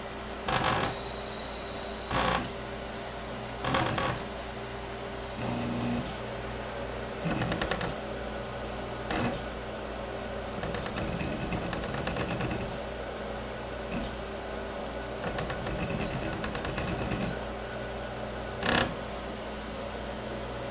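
Stepper motors of a homemade CNC router built from printer parts, driving its axes in short moves: brief buzzing jogs of under a second, a few longer runs of two to three seconds, all over a steady hum.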